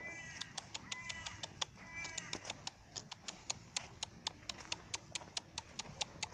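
An animal calling three times, short pitched calls in the first couple of seconds, over a steady series of sharp clicks at about four a second.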